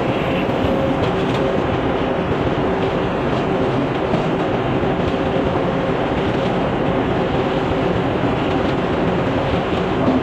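Sawmill machinery running steadily, a continuous mechanical rumble and rattle.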